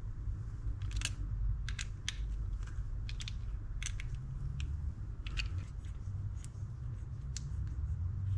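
Irregular small clicks and ticks of screws being tightened into a Daiwa Catalina 6500H spinning reel's body during reassembly, over a low steady hum.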